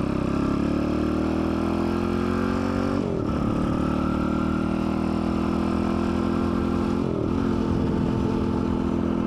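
Dirt bike engine running under way, its pitch creeping slowly upward and dipping briefly twice, about three seconds in and again near seven seconds.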